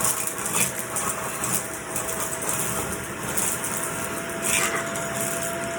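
Vacuum cleaner running steadily: a motor whine held on one pitch under a rushing hiss that swells and fades in the highs every second or so.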